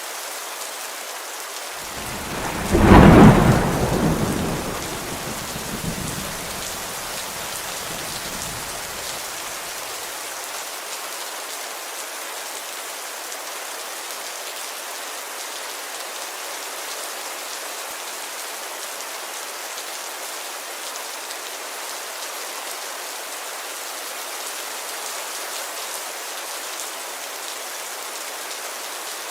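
Heavy rain pattering steadily on a window, with a sharp crack of thunder about two seconds in that rumbles away over the next several seconds.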